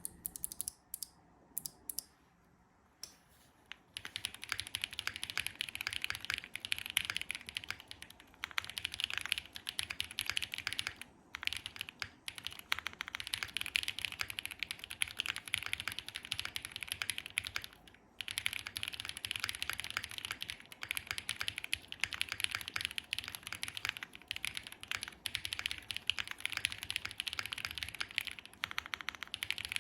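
Custom Space65 R3 mechanical keyboard with an FR4 plate, plate and case foam, lubed SOTC linear switches and GMK keycaps, being typed on. A few single keystrokes come first, then fast continuous typing from about four seconds in, with brief pauses.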